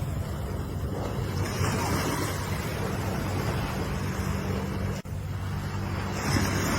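Ocean waves washing in a steady rush of surf, swelling twice, with a low steady rumble underneath. A brief sudden dropout cuts the sound for an instant about five seconds in.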